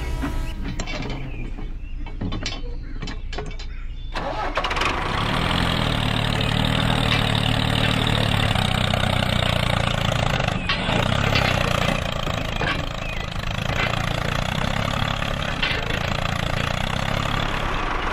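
A vehicle engine starting: a few seconds of scattered clicks, then the engine catches about four seconds in and runs steadily.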